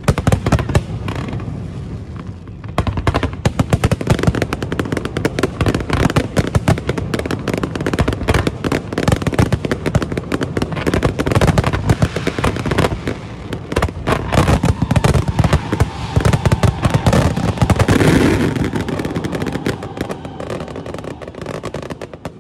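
Aerial fireworks show: a dense, rapid crackle of bursting shells and bangs that builds to a peak near the end and then thins out.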